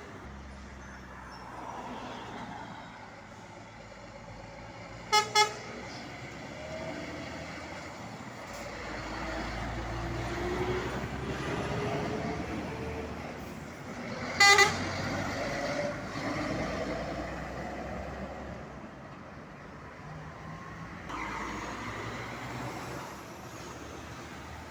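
Truck horn sounding two short toots in quick succession about five seconds in and one more about nine seconds later, over the steady low running of a heavy truck's engine that swells in the middle.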